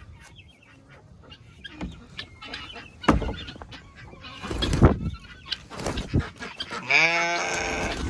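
Poultry calling from a coop: scattered short calls, with one long honking call about seven seconds in. Heavy thumps or rustles come twice in the middle.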